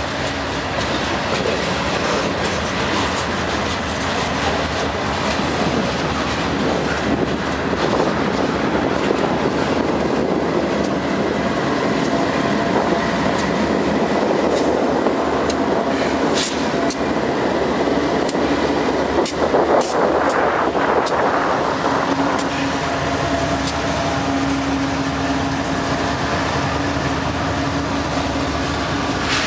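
Freight train passing close by: the steady rumble and clatter of loaded lumber flatcars on the rails, with a run of sharp wheel clicks about halfway through. Mid-train Union Pacific diesel locomotives then roll by, adding a steady engine hum near the end.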